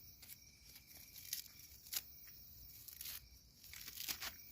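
Dry roasted corn husks rustling and tearing in a few short bursts as a roasted ear of corn is handled and peeled.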